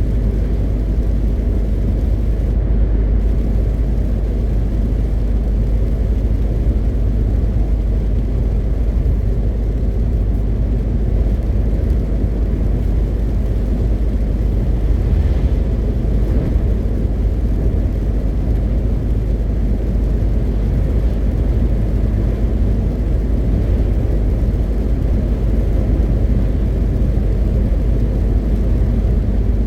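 MAN TGX 520 truck's diesel engine running steadily under way, a constant low drone with road noise.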